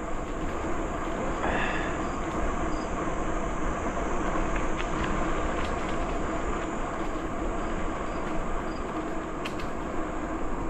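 Steady rumble of bicycle tyres rolling along a trail, with wind noise on the microphone, and a few faint high chirps over it.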